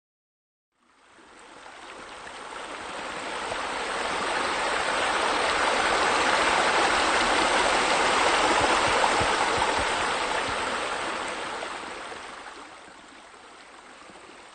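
Water running and splashing steadily. It fades in about a second in, is loudest in the middle and drops back to a lower level near the end.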